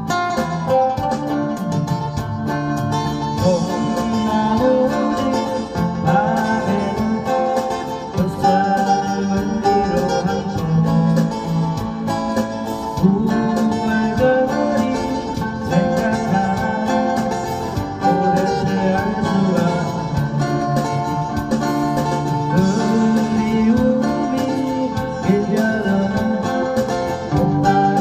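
Guitar playing a continuous melody over chords.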